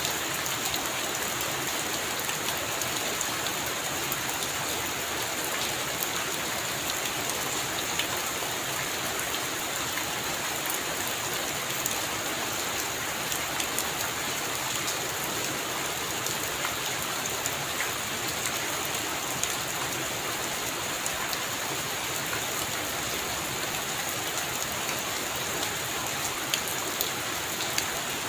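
Heavy rain falling steadily, with a constant hiss and many individual drops pattering close by.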